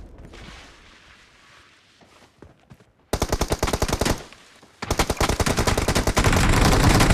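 Video-game automatic gunfire: a short rapid burst about three seconds in, then after a brief pause a longer stretch of continuous rapid fire.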